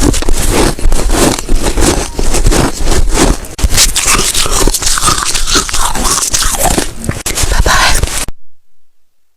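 Close-up crunching of a person biting and chewing frozen snow ice, a dense run of irregular crunches that stops suddenly about eight seconds in.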